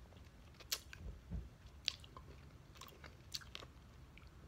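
Faint chewing of a piece of fruit-flavoured candy, with a handful of short wet mouth clicks scattered through it.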